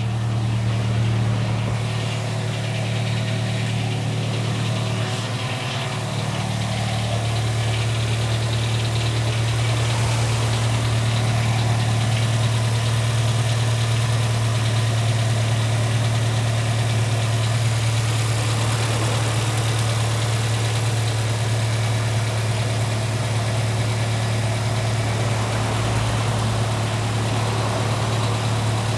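Volkswagen Gol G4's 1.0 8-valve EA111 engine idling steadily with a knocking noise from its lower end, which the owner and his mechanic put down to piston-to-cylinder clearance that has damaged a piston pin. Hydraulic lifters not yet pumped up after a cold morning start add to the noise.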